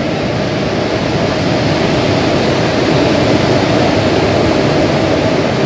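An Indian Railways electric locomotive hauling an express train rolls past close by along the platform, a loud steady rushing rumble of wheels on rail that swells slightly toward the middle.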